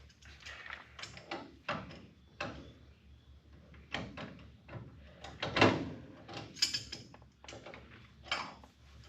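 Irregular clicks, knocks and scrapes of metal parts being handled while a car's front wheel hub and wheel bearing are worked on, with a louder clunk about halfway through.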